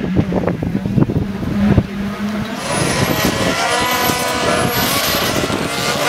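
Race car engine running with a string of sharp cracks over the first couple of seconds. It then revs up and down, with a high whistle rising several times.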